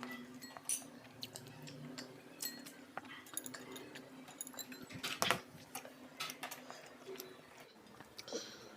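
Eating sounds: irregular small clicks and taps with a louder cluster about five seconds in, over a faint steady hum.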